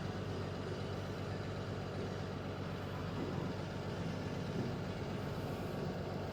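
Diesel truck engine idling steadily, a constant low hum.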